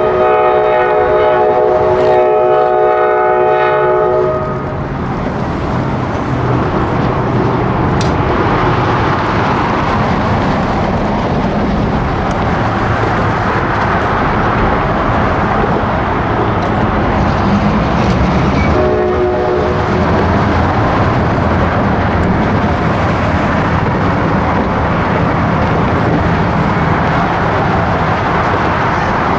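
Diesel freight train locomotive sounding its multi-chime air horn in a long blast that stops about four seconds in, then a short toot later on, over the steady rumble of the train rolling past.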